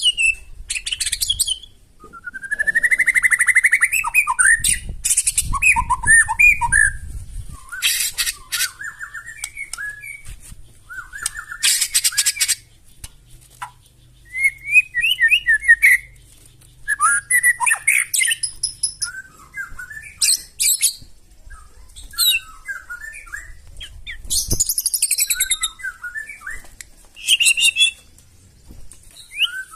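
White-rumped shama (murai batu) singing a varied string of phrases: whistled glides, fast trills and harsh, buzzy high notes, each phrase a second or two long with short pauses between.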